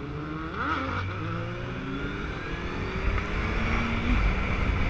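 Motorcycle engines running and revving: several engine notes slide up and down in pitch, and a low rumble grows louder in the second half.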